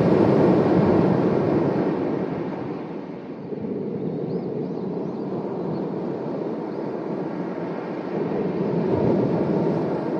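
Sea waves surging and washing onto the shore, swelling at the start, easing off a few seconds in and swelling again near the end.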